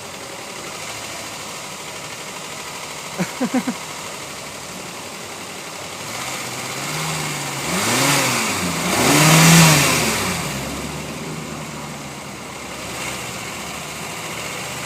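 A 2011 Hyundai Sonata's 2.4-litre direct-injected four-cylinder engine running with a clatter like slapping a bunch of slippers on the ground: the lifters tapping badly. About three and a half seconds in come three or four quick sharp chirps, and in the second half the engine is revved up and back down twice, the second rev the loudest.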